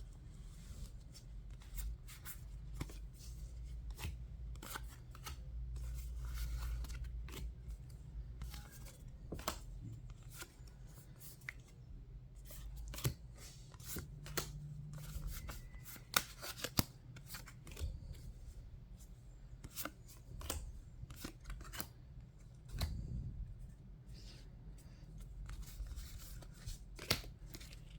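Trading cards being handled and sorted into piles: irregular soft clicks and slaps as cards slide over and drop onto one another. A low steady hum runs underneath.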